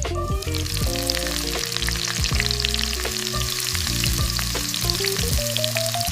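Food sizzling and crackling in a hot pan, steady from just after the start, over soft background music with a slow melody of single notes.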